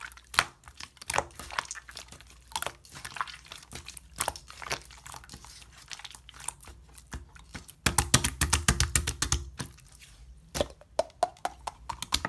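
Clear slime worked by hand, squeezed and stretched, making sticky clicks and small pops, with a quick run of rapid clicks about eight seconds in.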